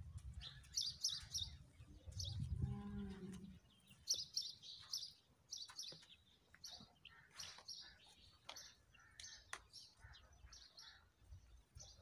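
Small birds chirping in short, repeated high bursts, with a brief low pitched call about two to three seconds in.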